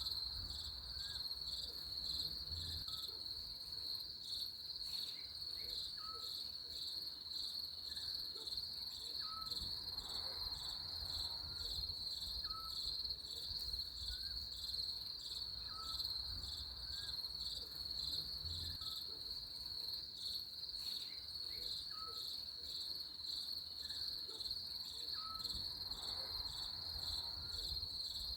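Steady chorus of crickets, a high pulsing trill that never lets up. Beneath it a faint short chirp repeats every second or two, over a low rumble.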